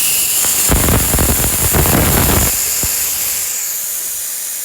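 Pneumatic air jack releasing its air with a loud, steady hiss as the red lever is pulled to lower the truck. A low rattling rumble joins in about a second in and fades out after about a second and a half.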